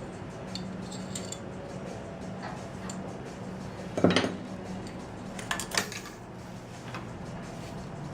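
Metal tools clinking against metal in a few light, separate clinks, the loudest about four seconds in, with two quick ones shortly after. A steady low hum runs underneath.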